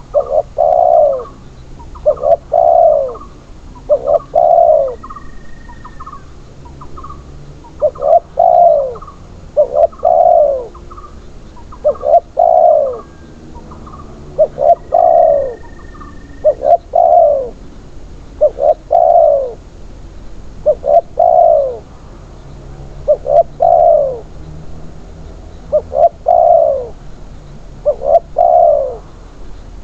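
Spotted dove (tekukur) cooing over and over, loud phrases of two or three short falling coos repeated about every two seconds.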